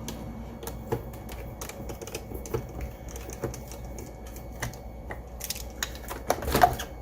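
Light, irregular clicks and taps of a screwdriver and plastic parts being handled while a robot vacuum's wheel module is worked on, with a louder clatter of knocks near the end.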